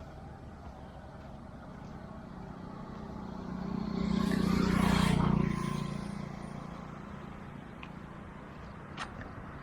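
A motor vehicle passes by: its engine and noise swell to a peak about four to five seconds in, then fade away over a steady low hum. A single sharp click comes near the end.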